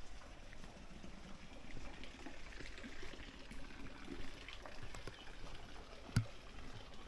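Faint trickling water with scattered small ticks, and a single sharp knock about six seconds in.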